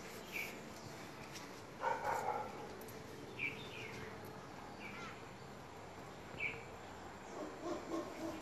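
Small birds chirping faintly in short falling notes, several times, with a few dog barks, one about two seconds in and a quick run of them near the end.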